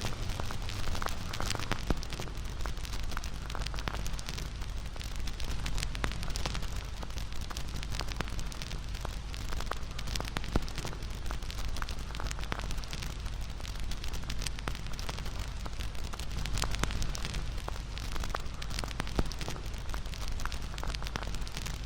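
Wood fire crackling, with frequent sharp pops and snaps over a steady low rumble of burning flames; one pop about ten and a half seconds in is louder than the rest.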